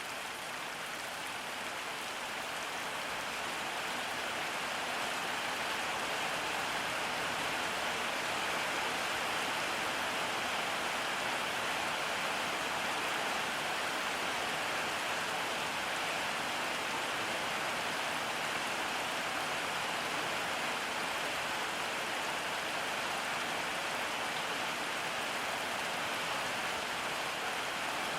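Steady rainfall pattering on surfaces, an even hiss with no breaks, growing slightly heavier over the first few seconds.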